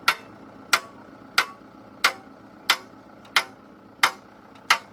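A hammer striking metal at a steady pace, about one and a half blows a second, eight blows in all, each with a short metallic ring.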